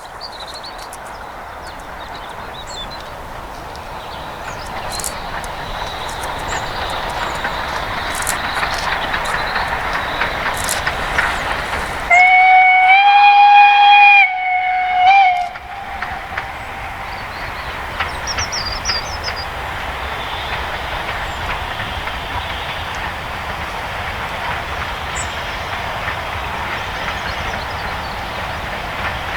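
Steam locomotive running past with its train, its noise growing louder over the first several seconds. About twelve seconds in it sounds its steam whistle in one long blast of about three seconds, then a short second toot, and the train keeps running by.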